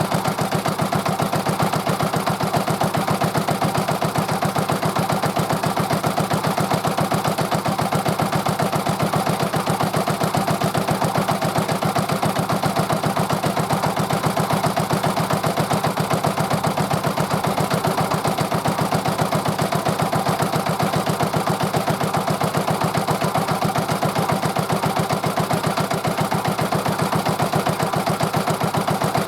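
Yanmar diesel engine idling steadily, with an even, rapid pulsing firing beat that holds unchanged.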